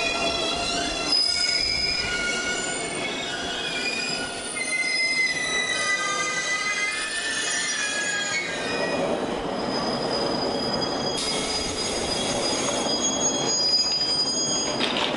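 JR Kyushu 813 series electric train braking to a stop at the platform, its wheels and brakes squealing in several high tones that glide and fade over the first eight seconds. A short hiss about eleven seconds in.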